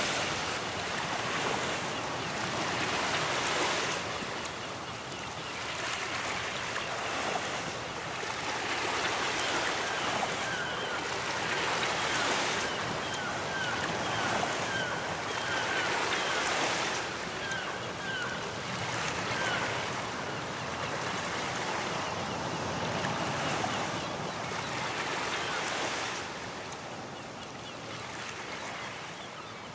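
Ocean surf: waves breaking and washing up on a beach, swelling and ebbing every few seconds, a little softer near the end.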